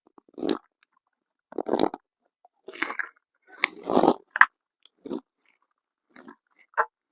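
Tools and parts being worked on a motorcycle engine on the bench: a series of short crunching, scraping knocks at irregular intervals, roughly one a second, with silence between.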